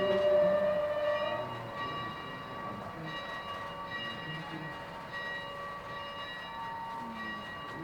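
Oil-fired 4-4-0 steam locomotive and its train running, with a steady whistle tone loudest at the start that stops about a second and a half in, leaving lower steady ringing tones.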